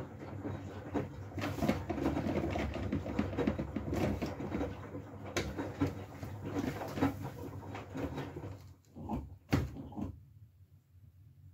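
Miele W433S front-loading washing machine tumbling a wet load of stuffed toys and pillows: a low motor hum under the irregular slopping and rumbling of the load in the drum. About nine seconds in the drum stops, with a couple of soft thuds, and the machine goes quiet.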